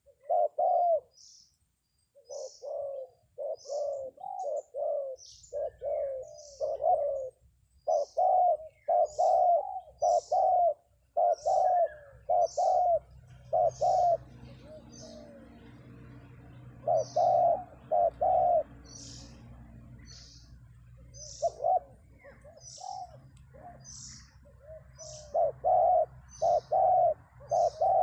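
Spotted doves cooing in repeated bursts of coo notes, with a few short pauses between bursts. A short high chirp repeats about once a second throughout, with a faint low rumble beneath from a few seconds in.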